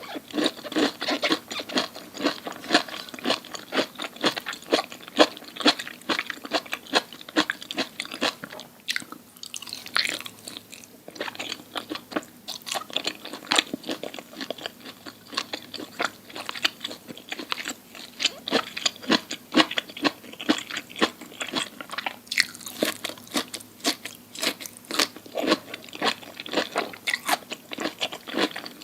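Close-miked crunchy chewing: a person biting and chewing crisp food with a dense run of crackling crunches, easing briefly about a third of the way through before picking up again.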